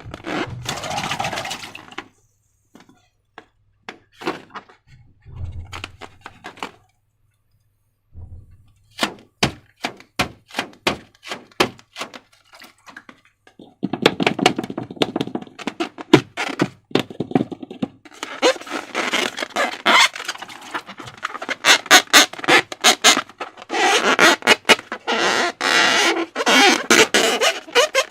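Slime being squeezed and worked by hand, making sticky clicks and crackling squelches. A few scattered clicks come first, then a string of separate clicks, then from about halfway a dense, continuous squishing.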